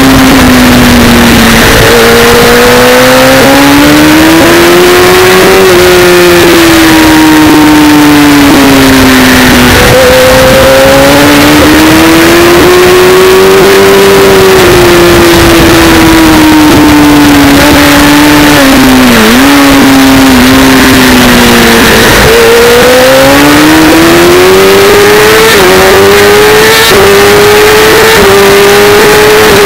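Racing motorcycle engine heard from onboard at high revs, its pitch rising under acceleration and falling under braking through a series of corners, with a sharp drop about two-thirds of the way through and a few quick upshifts near the end. Heavy wind rush over the microphone, and the recording is very loud throughout.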